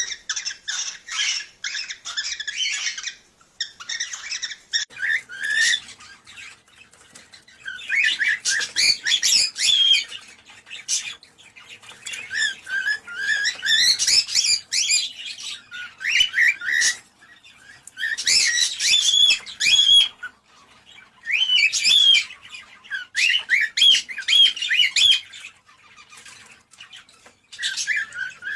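Cockatiels chattering and warbling in repeated bouts of rapid chirps and squawks, each a second or a few seconds long, with short pauses between. This is cockatiel song of the kind played to stimulate breeding.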